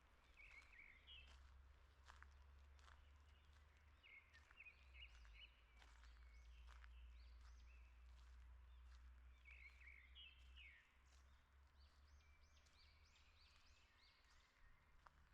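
Faint songbirds chirping in short repeated phrases, with scattered soft clicks and a steady low rumble underneath.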